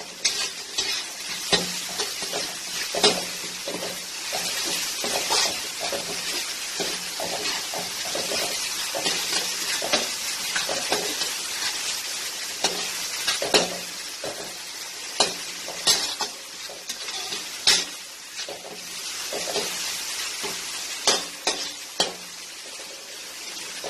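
Onions and tomatoes sizzling as they fry in a pan, with a spoon stirring and scraping against the pan in frequent irregular strokes.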